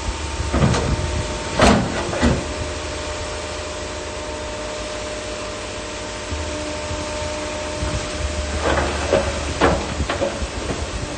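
Shantui DH17 bulldozer's diesel engine running steadily under load, with a low rumble and a steady whine. Several sharp clanks and scrapes of steel tracks and blade on stone come about a second in, near two seconds, and again near the end.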